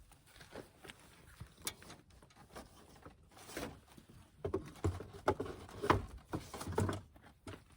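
Irregular light knocks and clicks, sparse at first and coming thicker and louder in the second half.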